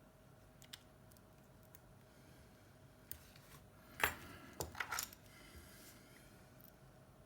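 Small hard clicks, then a brief clatter of small metal tools or parts set down on a work surface about four seconds in, followed by a few quick knocks.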